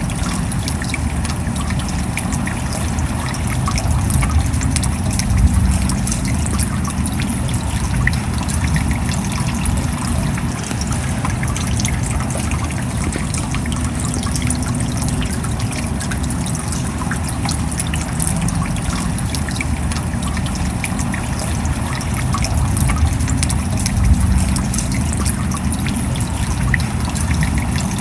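Steady rain falling, a dense patter of fine drop ticks with trickling water running underneath.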